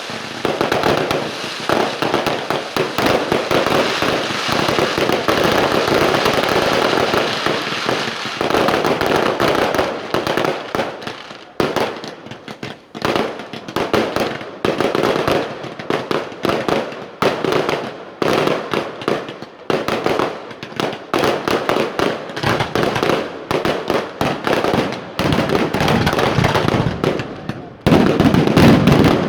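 Fireworks display: a dense barrage of bangs and crackling that thins to more separate bangs about a third of the way in, then builds to a loud close-packed barrage again near the end.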